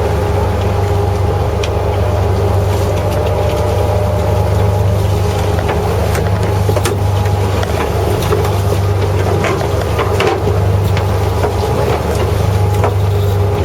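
Fishing boat's engine running steadily, a loud low hum, with scattered short clicks and knocks over it.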